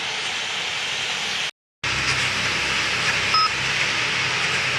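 Dense, steady noise of a huge flock of birds massed together. The sound cuts out completely for a moment about a second and a half in, and a short electronic beep sounds about three and a half seconds in.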